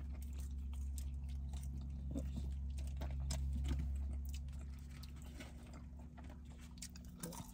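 Close-up chewing of fast food, with many small mouth clicks. A steady low hum runs underneath and fades about halfway through.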